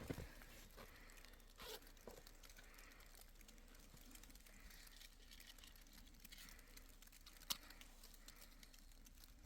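Near silence, with faint rustling and a few soft clicks, one about two seconds in and another near the end.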